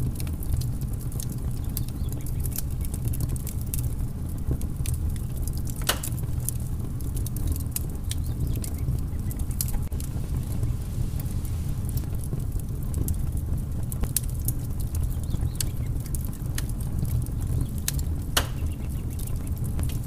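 Wood fire crackling in a fireplace: a steady low rumble with many small crackles, and two louder pops, about six seconds in and near the end.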